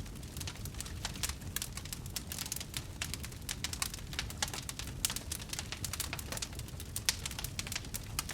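Wood fire crackling: many irregular sharp snaps and pops, several a second, over a low steady rumble of the burning.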